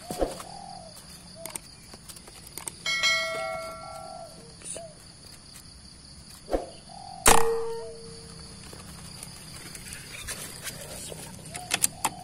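Spotted doves cooing, short rising-and-falling calls repeated several times. A ringing metallic ding about three seconds in, and a sharp crack, the loudest sound, about seven seconds in, followed by a brief ringing tone.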